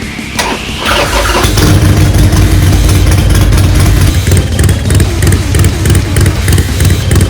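Harley-Davidson Forty-Eight's air-cooled V-twin starting: a rising starter whine, then the engine catches about a second in and runs with a loud low rumble.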